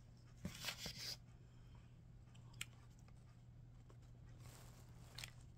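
A crunchy bite into crispy fried chicken, about half a second in, then quiet chewing and a few faint clicks, over a faint steady low hum.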